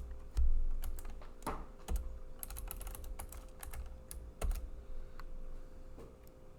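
Typing on a computer keyboard: irregular keystrokes with a quick run of them midway, and a few low thumps, the loudest about half a second in. A faint steady hum runs underneath.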